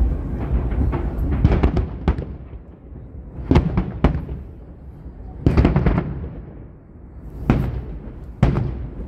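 Aerial fireworks bursting: a run of crackles in the first two seconds, then about five sharp booms with echoing tails, over a steady low rumble.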